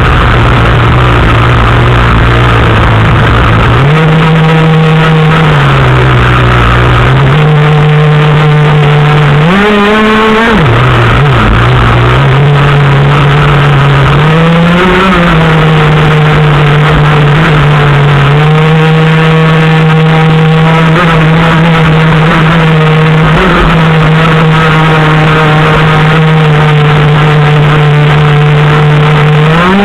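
An engine running loud at steady speeds, its pitch stepping up and down as the throttle moves, with short revs about ten and fifteen seconds in and a rise at the very end.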